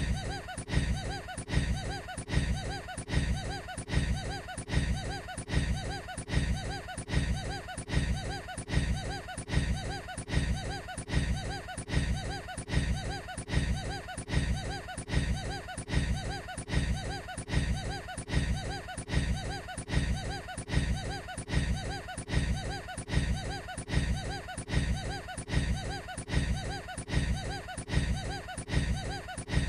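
A man's short, odd laugh played on a loop: the same brief clip repeats about once a second without a break.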